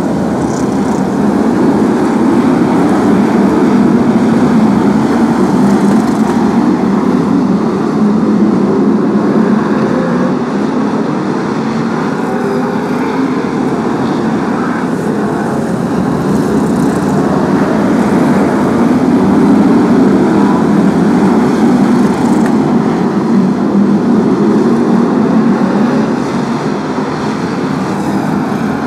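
A pack of BriSCA F1 stock cars racing, their V8 engines running hard under load. The sound grows louder and fades as the pack comes round.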